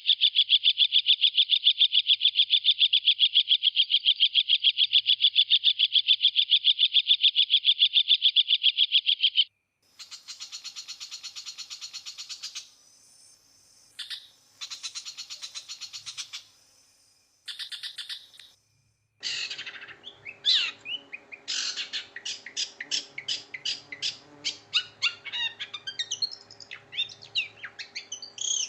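Long-tailed shrike (cendet) singing: a long, very fast, even trill for about nine seconds, then shorter, higher trills broken by pauses. From about two-thirds in comes a quick, varied run of chirps and whistled notes.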